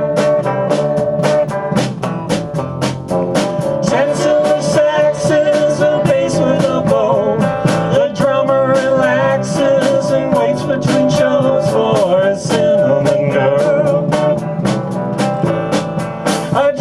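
Live band playing, with a steady drum beat and a held, wavering melody line over it.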